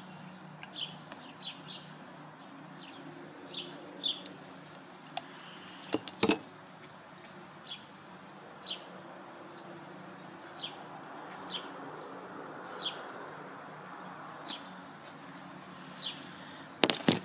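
A bird chirping repeatedly in short single high notes, about one every second, over a low steady hum. A knock about six seconds in and a few louder knocks right at the end.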